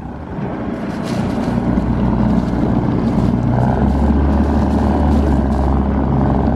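Catamaran's engines revving up in reverse, building over the first couple of seconds to a steady, loud run, as they try to back the grounded boat off a mud bank.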